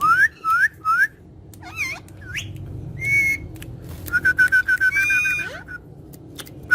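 Pet parrots whistling and chirping: three short rising whistles at the start, a few varied chirps, then a fast trill of repeated notes, about seven a second, from about four seconds in.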